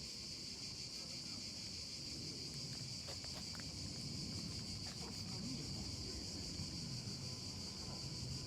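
Insect chorus: a steady, high-pitched drone that keeps on without a break, over a low rumble of outdoor noise.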